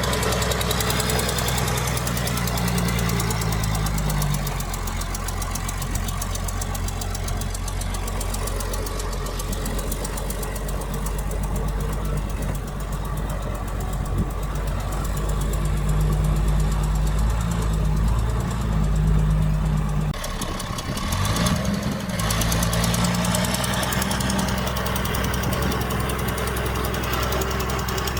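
Diesel engine of heavy earthmoving equipment running and working under changing load, its pitch rising and falling several times, with a brief drop about twenty seconds in before it picks up again.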